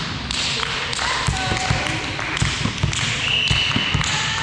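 Volleyball play on an indoor court: a run of dull thuds from the ball and players' feet on the hall floor, with a few short squeaks and players' voices in the background.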